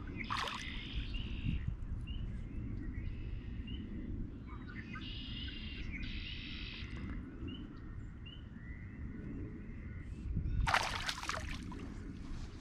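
Birds chirping repeatedly over a steady low rumble of wind on the microphone. About ten seconds in comes a short, loud burst of noise.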